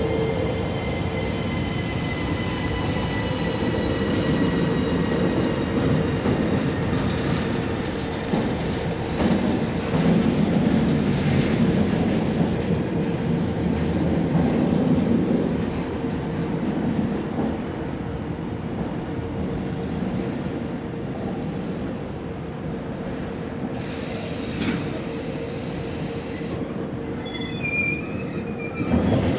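Freight train of tank wagons rolling slowly past as it comes in to stop, with a steady rolling rumble and wheel squeal. A faint falling squeal sounds in the first few seconds, the rumble grows heavier midway, and short high squeals come near the end.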